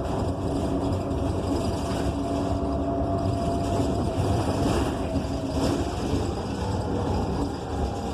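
Transit bus heard from inside while under way: the Cummins Westport ISL G natural-gas engine and Allison automatic transmission running with a steady low rumble and a faint whine that drifts slightly in pitch.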